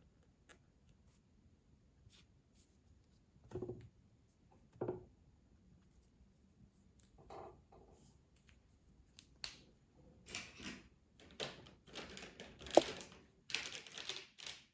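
Colouring supplies being handled on a table: a few scattered soft knocks and clicks, then a busier stretch of scratchy rustling and small clattering over the last few seconds, with one sharp click just before the end.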